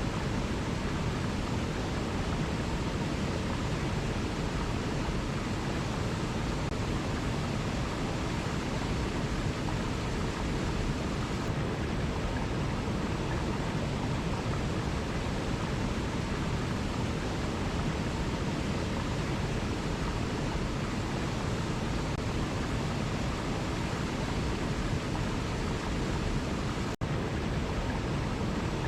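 Waterfall rushing steadily, a dense even roar of falling water, with a split-second dropout near the end.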